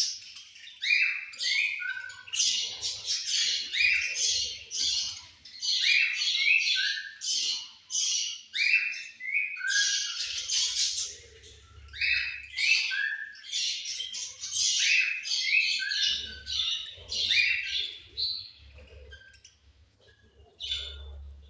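A group of budgerigars chirping and squawking, many short, busy calls overlapping almost without a break, thinning out near the end.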